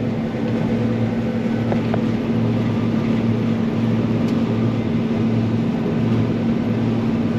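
Combine harvester running steadily in the soybean field: a constant engine hum with a slow, even pulsing throb underneath.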